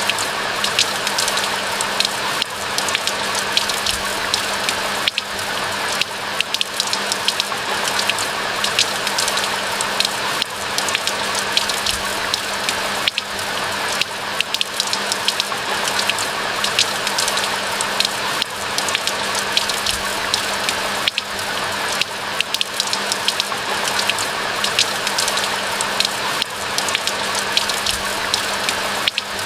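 Steady rain falling, with many separate drops striking close by over a continuous hiss, and a faint steady low hum underneath.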